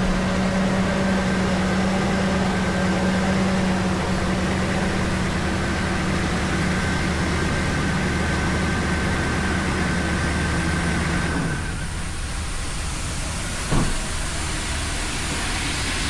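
Ford 5.4-litre Triton V8 running steadily at high idle with its new alternator charging. About eleven seconds in the engine tone drops away, and a single short knock follows a couple of seconds later.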